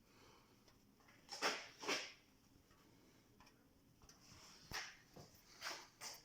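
Short knocks or clunks, mostly in pairs about half a second apart, one pair about a second and a half in and more near the end.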